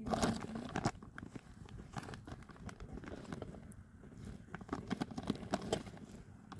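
Irregular clip-clop of hooves, a hoofed animal such as a donkey walking on hard ground, with a louder clatter in the first second.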